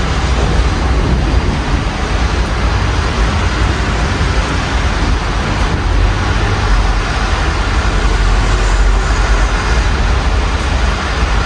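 Steady rain heard through an open window, mixed with the low rumble and hiss of street traffic on a wet road.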